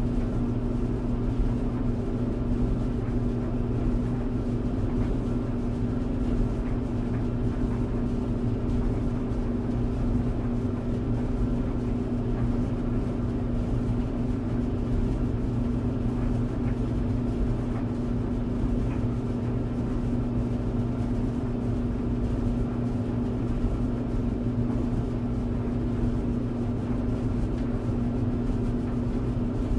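Clothes tumble dryer running steadily: an even motor hum with a few fixed low tones over a constant rush of noise.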